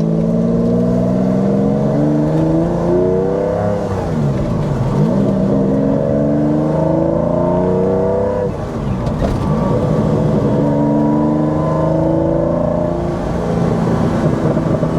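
1992 Lamborghini Diablo's mid-mounted 5.7-litre V12 with a straight-piped exhaust pulling hard, its note climbing through the revs. Twice the pitch drops at a gear change and climbs again. Near the end a rapid crackling comes from the exhaust.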